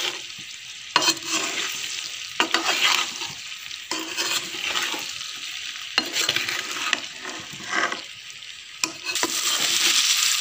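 Boiled amla (Indian gooseberries) frying with spices in hot oil in a kadhai, sizzling as they are stirred with a ladle that scrapes and knocks against the pan every second or two. The sizzling grows louder near the end.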